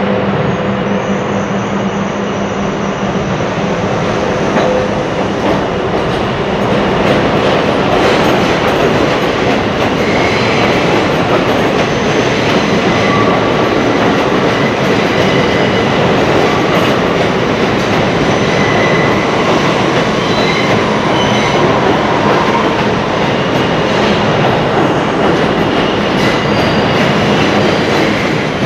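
A train running loudly on the rails: a steady rumble of wheels on track with some clickety-clack, and short high-pitched wheel squeals coming and going.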